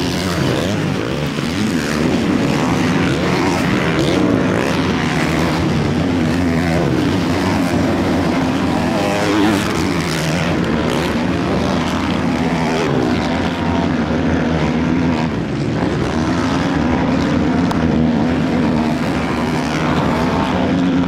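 Several 450-class motocross bikes racing, their engines revving up and down together in a continuous, wavering drone.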